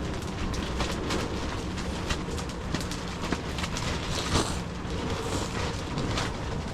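Strong gusty wind buffeting the microphone in a low, uneven rumble, with irregular short snaps and knocks throughout.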